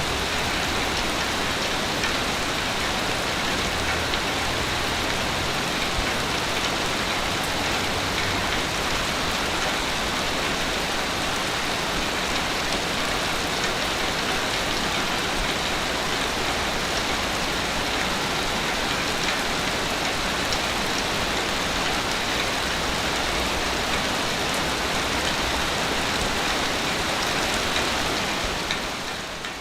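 Ocean waves on a beach: a steady, unbroken wash of surf with no distinct swells, fading out near the end.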